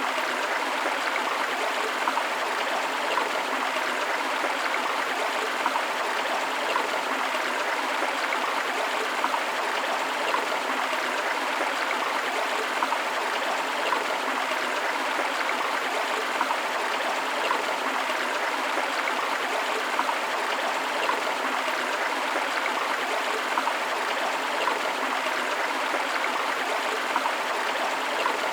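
Steady flowing water of a forest stream or river, an even rushing with small splashes and trickles flickering through it.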